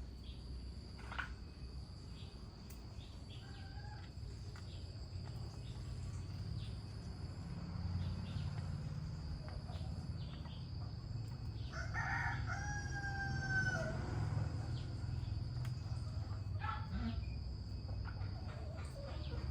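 A rooster crowing once, about two seconds long, roughly two-thirds of the way through, over a steady high-pitched whine and a low rumble.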